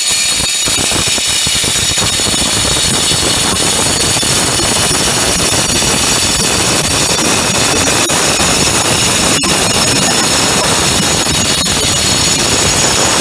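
Handheld power cutter with a stone-cutting diamond blade cutting into stone: a steady high motor-and-blade whine with a coarse grinding rasp of the blade in the stone, which comes in right at the start.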